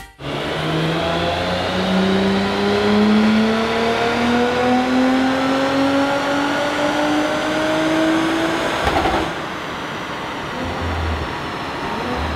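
Audi RS5's twin-turbo V6, running a stage 1 tune with aftermarket intake and downpipes, making a full-throttle pull on a chassis dyno: its note climbs slowly and steadily for about nine seconds, then the throttle closes with a short burst of noise and the engine winds down with a few low thumps.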